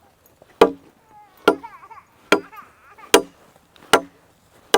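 A machete chopping into wood in steady, evenly spaced strikes, about one every 0.8 seconds, six in all.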